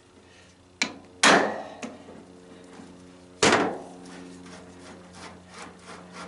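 Hammer striking a hand impact screwdriver with a Phillips bit to break a stuck screw loose. There is a light tap, then two hard blows about two seconds apart, each ringing briefly.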